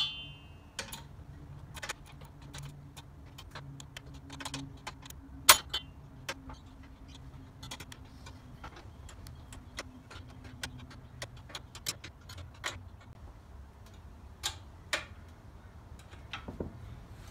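Spanner and screwdriver clicking and clinking on the steel nylock nuts and height-adjusting screws of a Scott Bonnar Model 45 reel mower as the nuts are tightened. The clicks come irregularly, and a few sharper metallic clinks ring briefly, the loudest about five and a half seconds in.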